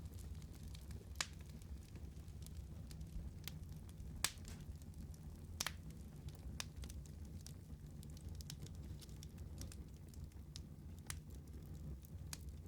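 Wood fire burning with a low steady rumble, and scattered sharp crackles and pops from the burning logs. The loudest pops come about a second in, about four seconds in, and just after five and a half seconds.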